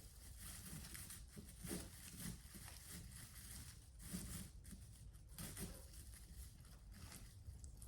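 Faint rustling and scattered light knocks of things being handled, over a low background hiss.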